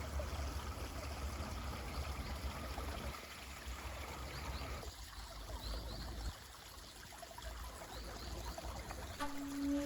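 Mountain stream running and trickling steadily, with a few faint high bird chirps. A low shakuhachi note comes in near the end.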